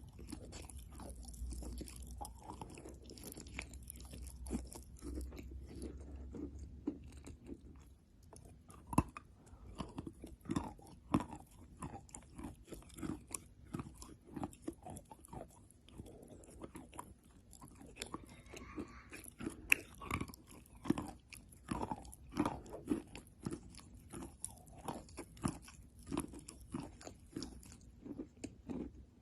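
Chalk being bitten and chewed close to the microphone: many irregular crisp crunches, a little sparser about eight seconds in.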